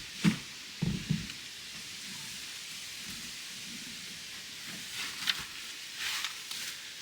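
Soft rustling of hay and plastic sheeting, with a few light thumps in the first second or so, over a steady hiss.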